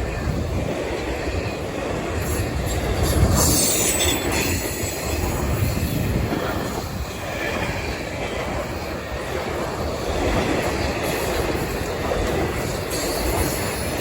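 Freight train rolling past on the rails, a steady rumble of cars with wheels clacking over the rail joints and brief high-pitched wheel squeals about a third of the way in and again near the end.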